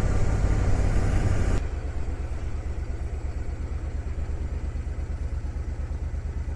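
Suzuki Boulevard C90's V-twin engine running with loud wind rush at road speed. About one and a half seconds in, the rush cuts off abruptly, leaving the engine running slowly with a steady, even low pulse.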